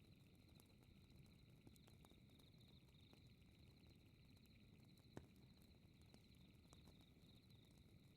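Faint crackling fire: a low steady rumble with scattered small crackles and one sharper pop about five seconds in. Behind it, crickets chirp steadily in a fast, high pulsing trill.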